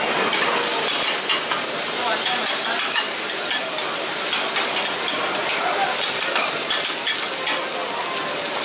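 Oyster omelettes frying on a large flat iron griddle with a steady sizzle. A metal spatula scrapes and taps on the griddle again and again as the omelettes are cut apart and turned.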